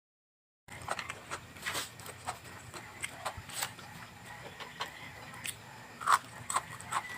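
Crunchy vegetables being bitten and chewed: irregular crisp crunches and clicks that begin after a short stretch of dead silence near the start.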